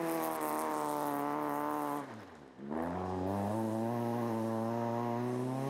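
Rally car engine under load on a gravel stage. The revs fall away over the first two seconds, the sound drops out briefly, then the revs climb steadily as the car accelerates.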